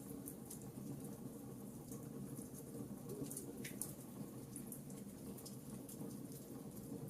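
Fireplace fire crackling faintly: scattered small pops and snaps, a few each second, over a low steady rumble of flames.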